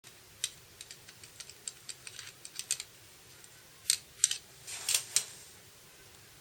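A run of light clicks and taps, like tools or small parts being handled during bike maintenance work, with a few louder knocks and short hissing bursts about four to five seconds in.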